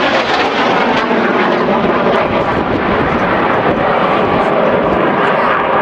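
Jet engines of the Red Arrows' BAE Hawk T1 aircraft, a loud, steady jet noise from the display formation overhead.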